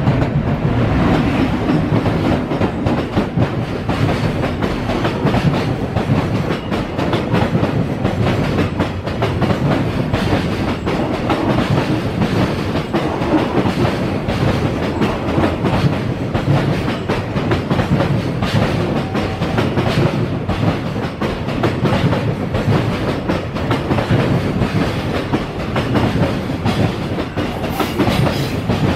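Freight train rolling past at speed: a steady, loud clatter of many wagon wheels over the rail joints, with rumble underneath.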